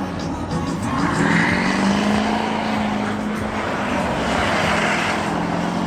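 Vehicle engine held at steady high revs under a broad wash of noise.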